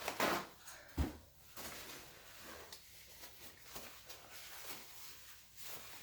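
Rustling handling noise as paint-covered hands are cleaned off, with a sharp thump about a second in, followed by a faint steady hiss.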